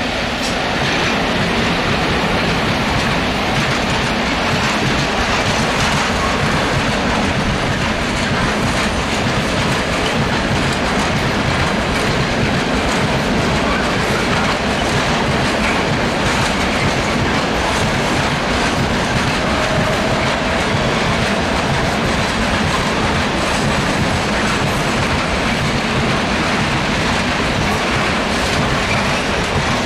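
Long freight train of open wagons rolling past, wheels clattering over the track switches in a steady, continuous run.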